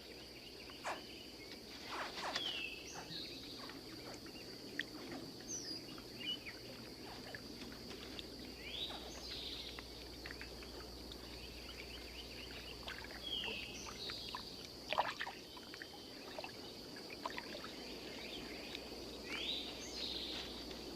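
Swamp ambience: a steady high insect drone, with a bird giving a short sliding chirp every few seconds and scattered clicks and rustles.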